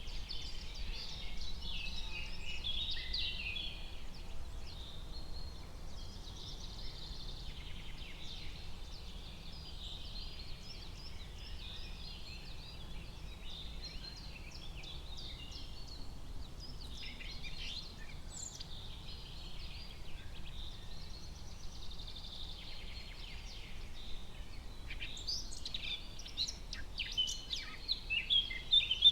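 Forest ambience of many songbirds chirping and trilling together, the calls thickening into quick sharp chirps near the end.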